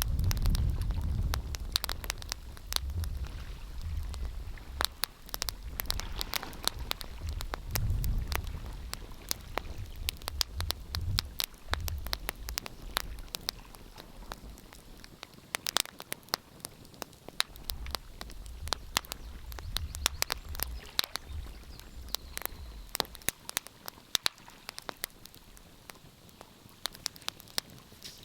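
Wood fire crackling, with irregular sharp pops and snaps several times a second. Under it runs a low rumble that swells and fades, dying away near the end.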